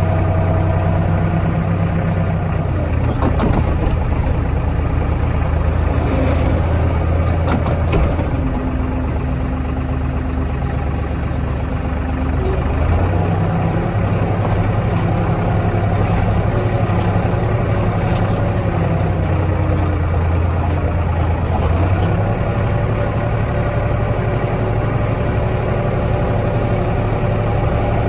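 Kioti DK65 tractor's diesel engine running steadily, its pitch stepping up and down a few times as it works, with scattered knocks and clatters.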